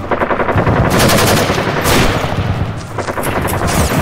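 Rapid machine-gun fire sound effect: a fast, loud run of shots with a short break about three seconds in.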